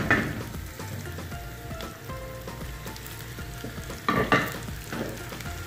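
Chopped garlic and onion sizzling in hot oil in a frying pan, with a spatula scrape at the start. About four seconds in, a few louder knocks as chopped tomatoes are tipped into the pan.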